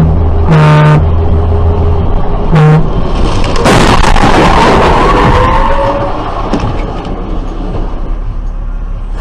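A car horn honks in three short blasts. About three seconds in, a loud rush of noise with a wavering squeal lasts a couple of seconds, followed by a few sharp knocks.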